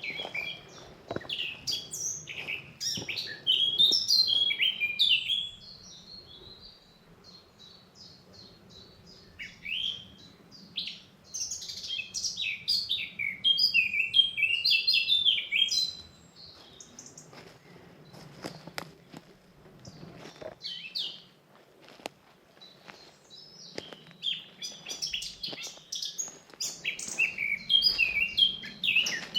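Forest songbirds singing in three spells of quick, varied chirping phrases, each lasting several seconds, with quieter gaps between them.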